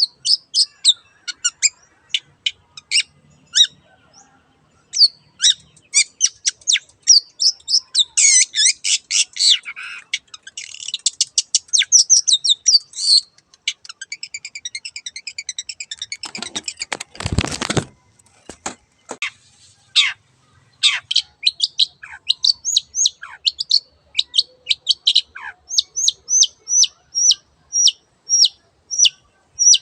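Long-tailed shrike singing: a fast run of sharp high chirps and trills, broken about two-thirds through by a harsh rasping chatter, then a steady series of repeated notes about two a second near the end.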